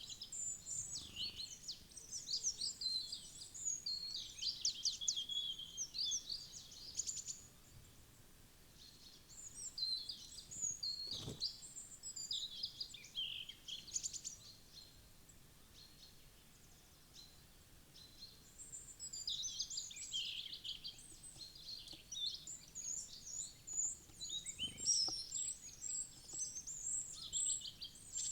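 Small wild songbirds chirping and twittering in high-pitched bouts of quick, overlapping calls, with lulls between the bouts. A single sharp knock comes about 11 seconds in, and a fainter one near the end.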